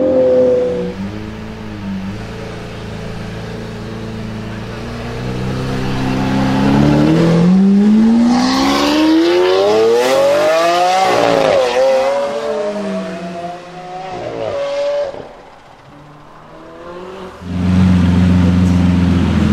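Lamborghini Aventador V12 accelerating hard, its pitch climbing steadily for about four seconds, dropping sharply and then climbing again before it fades. After a short lull, another Aventador's V12 idles with a steady low rumble near the end.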